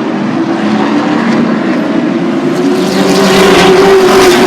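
Race truck engines running at speed around the oval, several engine notes at once. They get louder about three seconds in as the pack comes past close by.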